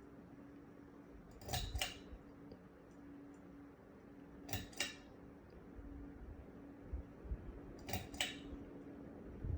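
44-inch Harbor Breeze Mayfield ceiling fan running with a steady low motor hum, and a light double clink repeating about every three seconds, three times.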